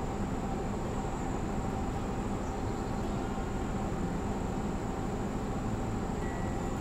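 Vehicle engine idling, heard from inside the car: a steady low hum with a thin, steady high whine over it.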